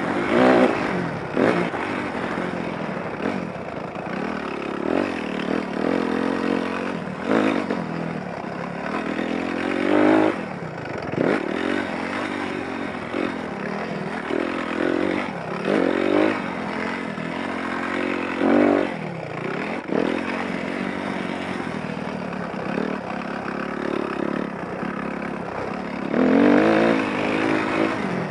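Dirt bike engine revving up and dropping off again and again as the rider works the throttle around a motocross track, with louder, higher surges every several seconds.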